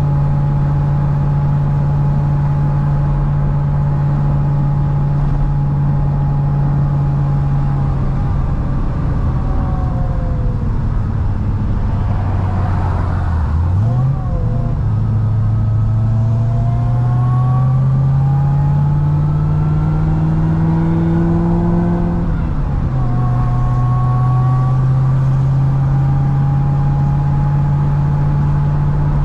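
Supercharged V8 of a 1000-horsepower C6 Corvette ZR1 under way: holding a steady note, then dropping off about eight seconds in, with a quick rev blip near the middle. The pitch then climbs steadily through one gear for about eight seconds before falling back to an even cruise.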